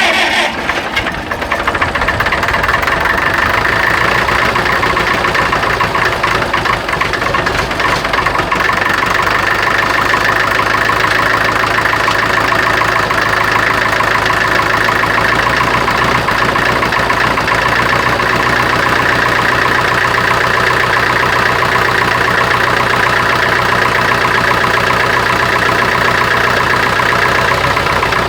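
Gas-start diesel tractor engine running loudly and steadily on gasoline, the compression-relief valves open and the spark plugs firing, before being switched over to diesel. It comes in abruptly and holds steady.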